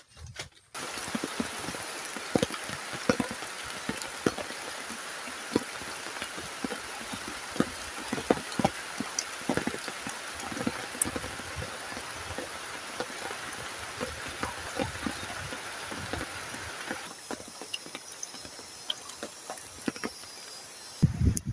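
Heavy rain falling: a steady hiss with many separate drops ticking on a surface. The sound turns duller a few seconds before the end, and a louder low thump comes at the very end.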